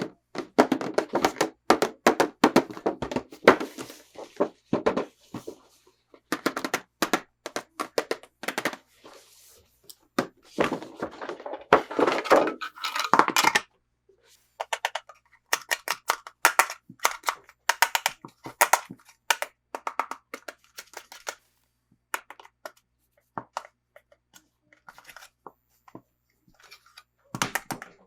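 Toy packaging being handled and opened: dense runs of clicks, taps and crinkling of plastic and cardboard, in bursts with short pauses between.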